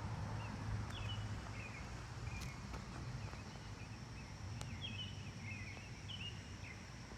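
Outdoor ambience: a bird calling again and again with short, quick chirps over a steady low hum and hiss, with a couple of faint clicks.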